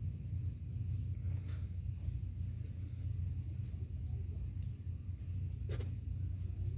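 Insect trilling steadily in one high, evenly pulsing tone over a low steady rumble, with a single sharp click near the end.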